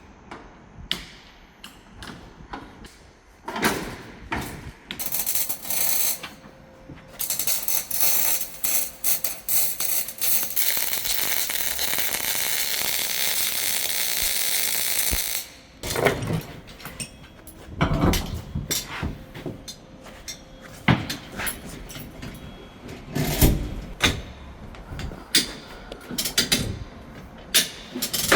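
Metal repair work on a truck cargo body: scattered knocks and clanks. From about seven seconds in, a power tool gives a steady loud hissing noise for about eight seconds, then heavier metal knocks follow.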